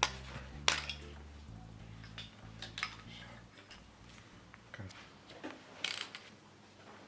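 Scattered metallic clicks and clinks of hand tools and engine parts being handled during engine disassembly, with quiet background music underneath that fades about a second and a half in.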